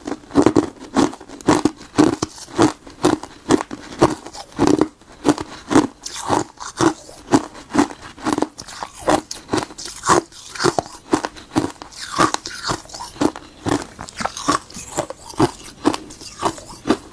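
Close-miked crunching of ice frozen from tartary buckwheat tea being bitten and chewed, a steady run of sharp crunches about two a second.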